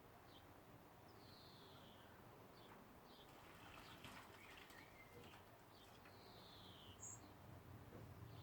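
Faint songbird chirping: repeated short high chirps, with two longer falling notes, one about a second in and one near six seconds, and a few faint clicks in the middle.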